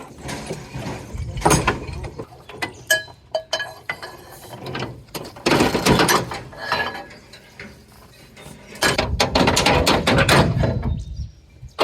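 Ratchet tie-down being worked to secure a load on a low loader: runs of quick ratcheting clicks with metal clinks and clanks, in several bursts.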